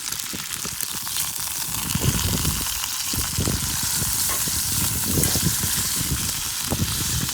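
Thick steak sizzling over a bonfire, a steady hiss with irregular low rumbles underneath.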